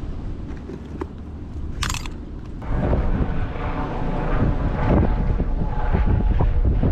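Strong wind buffeting the microphone as a low, rumbling roar, growing louder in gusts from a little under three seconds in. A short, sharp hiss cuts through about two seconds in.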